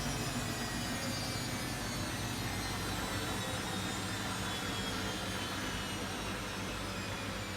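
Bosch Avantixx 7 VarioPerfect washing machine spinning: the drum and motor give a steady rushing hum, with a high whine that falls slowly in pitch as the drum slows.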